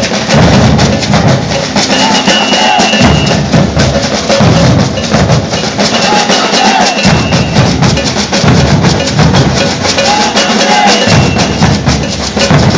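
Maracatu de baque virado percussion group playing loud, dense drumming: alfaia bass drums pounding under snare drums and shakers in a rhythm that repeats about every four seconds.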